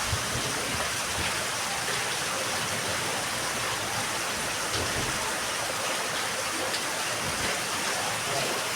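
Steady rain falling on a yard, an even hiss with scattered drop ticks.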